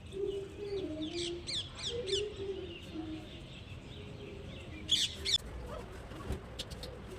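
Birds chirping: a run of quick falling chirps about a second in, and a couple more about five seconds in, over a soft background.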